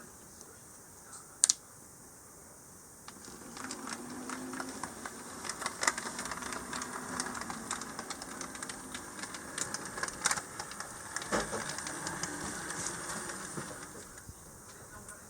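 An HO-scale model Mikado steam locomotive running on track: a small motor's hum under a dense rattle of wheels clicking over rail joints. It comes up about three seconds in and fades near the end as the locomotive passes. There is a single sharp click just before that.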